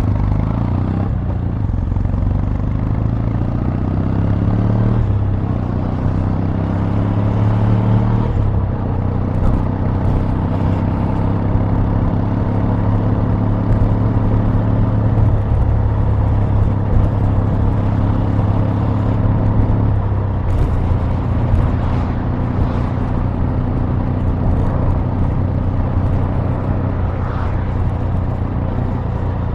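Exhaust note of a 2021 Kawasaki W800's air-cooled parallel-twin engine, running continuously; its pitch and rhythm change a few times as the revs shift.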